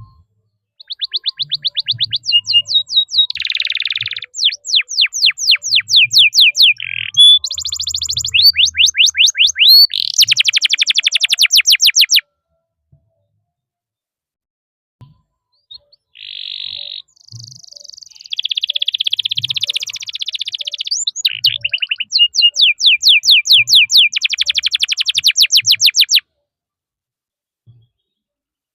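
Domestic canary singing: fast trills of rapidly repeated high notes and long rolls, in two long bouts with a pause of about four seconds between them.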